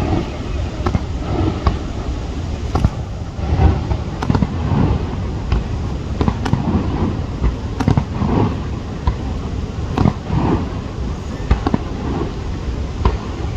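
Fireworks display: aerial shells going off in irregular sharp bangs, a dozen or so, about one every second, over a steady low rumble.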